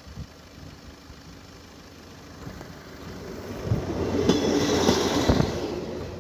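Diesel passenger railcar passing the level crossing. Its engine hum and wheel-on-rail noise swell about three seconds in, with a couple of sharp wheel clacks at the loudest point, then fade as it moves away.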